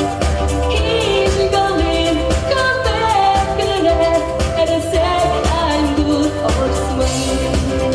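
A song with a solo singer over a pop backing track with a steady beat; the melody bends and wavers in pitch.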